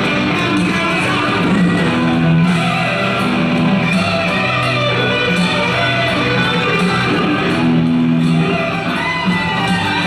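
Live guitar-led music playing steadily, with held chords and notes over a low line.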